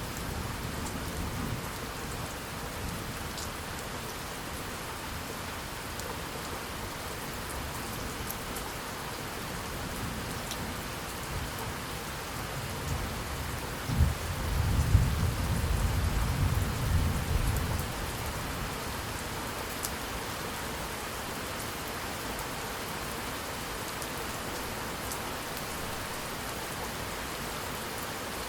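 Steady rain falling on a surface. About halfway through, a roll of thunder opens with a sharp crack and rumbles low for a few seconds before fading back under the rain.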